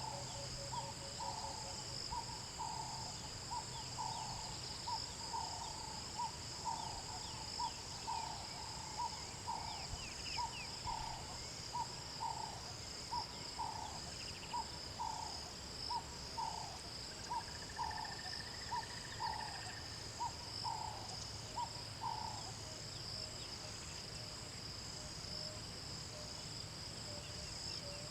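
A bird calling a long series of evenly spaced, hoot-like notes, about two a second, each falling slightly in pitch; the series stops about three-quarters of the way through. Under it runs a steady high-pitched chorus of insects.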